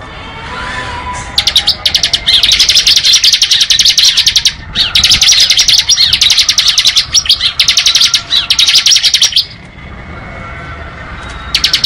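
Bar-winged prinia (ciblek) giving its rapid, dry drilling trill ('ngebren') in long runs with brief breaks. It stops about nine and a half seconds in, and a short burst comes again near the end.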